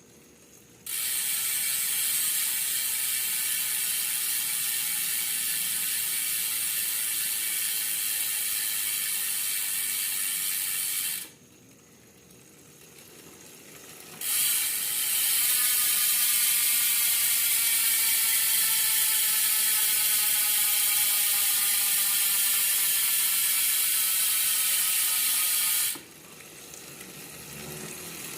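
ARC MT006 bicycle rear hub freewheeling, its freehub ratchet clicking in a fast buzz whose pitch slowly falls as the wheel slows. Two spins: the first stops suddenly after about ten seconds, and after a pause of about three seconds a second spin runs for about twelve seconds before cutting off suddenly.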